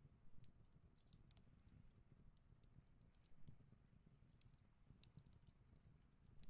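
Near silence with faint, scattered light clicks and taps of a pencil and plastic pattern ruler being handled on paper.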